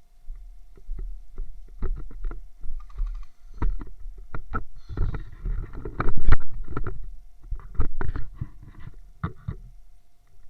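Irregular knocks and thuds over a low rumble, coming thick and loudest around the middle, then thinning out toward the end.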